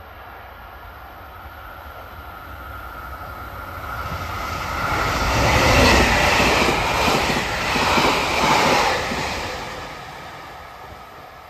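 A limited express train passing through a station at speed without stopping. Its rumble and wheel noise build over a few seconds, peak loud in the middle, and fade away near the end.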